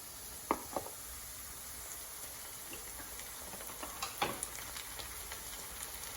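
Onions frying in hot oil in a pan, a steady sizzle. A few sharp knocks come over it, two near the start and two about four seconds in, the loudest of these at about four seconds.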